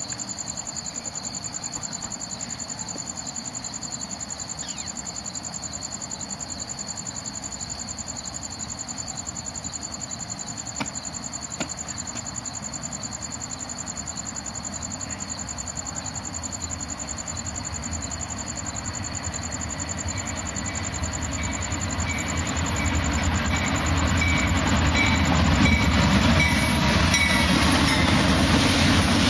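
BNSF diesel locomotives of a light engine move, a GE Dash 8-40CW among them, approaching: a low engine rumble that grows steadily louder over the last ten seconds, with a repeated ringing about twice a second joining in near the end.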